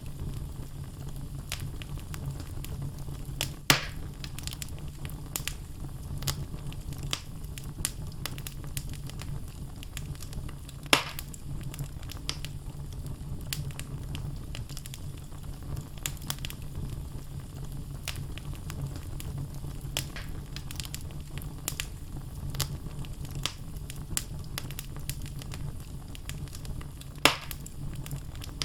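Wood fire burning in a fireplace, the logs crackling with frequent small clicks and three louder pops, over a steady low rumble.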